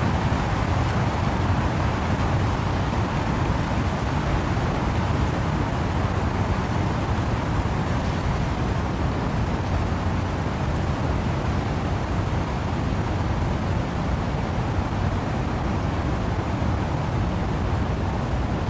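Steady rain and wind blowing through trees: a continuous, even rushing noise, heaviest in the low end, with no single drops or gusts standing out.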